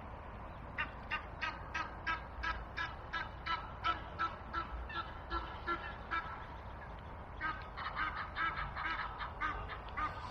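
Birds calling in a fast, regular series of about three calls a second, breaking off about six seconds in, then several calling together near the end.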